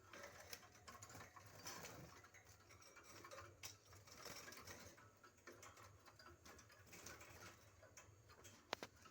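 Near silence: faint scattered ticks and rustling, with one sharp click near the end.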